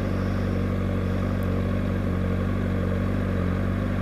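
Honda CBR600RR's inline-four engine idling steadily at a traffic light.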